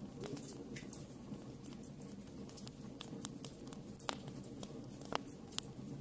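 Wood fire burning in a fireplace: a steady low rumble of flames with irregular sharp crackles and pops, a few louder snaps in the second half.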